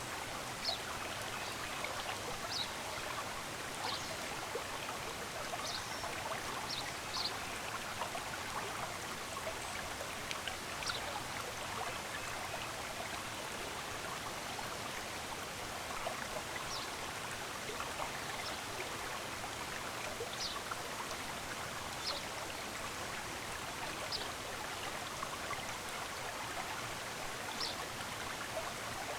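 Steady running water of a small stream, with short high bird chirps every second or two.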